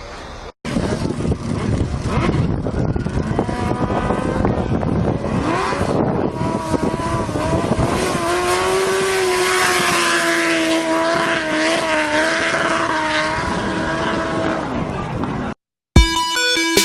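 Motorcycle engine running hard at speed with heavy wind and road noise. Its pitch wavers up and down, then holds fairly steady. It starts and stops abruptly at clip cuts.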